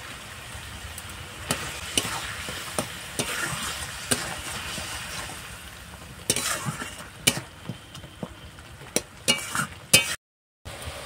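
Spice paste sizzling in hot mustard oil in a metal kadai as a metal spatula stirs and scrapes it, with sharp clinks of the spatula against the pan: the masala being fried down (kashano). The sound cuts out for a moment near the end.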